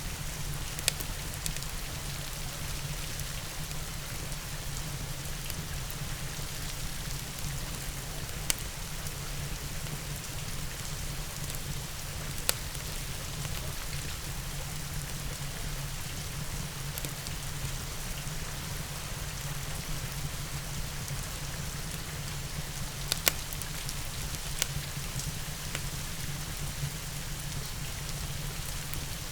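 Steady rain with a fireplace crackling, a few sharp pops standing out now and then.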